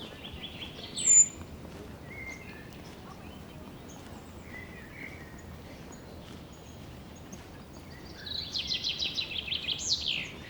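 A songbird calling in the forest: a sharp, short high note about a second in, then near the end a rapid trill of many quick repeated notes that ends in a falling sweep, over steady faint background noise.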